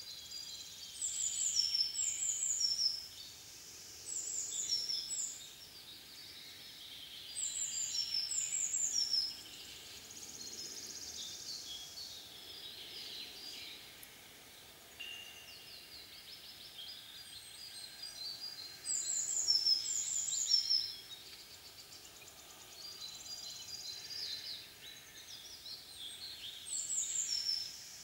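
Songbirds singing. One bird repeats a short, high phrase of quick falling notes several times, with pauses of a few seconds between phrases, and softer chirps from other birds fill the gaps.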